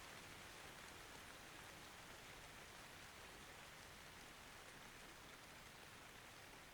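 Faint, steady rain falling: an even hiss without thunder.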